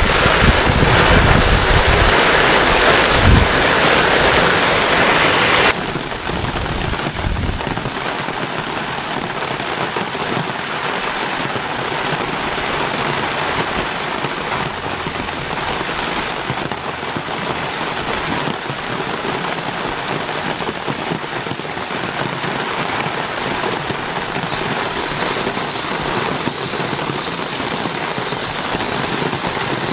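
Heavy rain falling steadily in an even hiss. It is louder, with low rumbling, for the first few seconds, then drops abruptly to a steady, softer downpour about six seconds in.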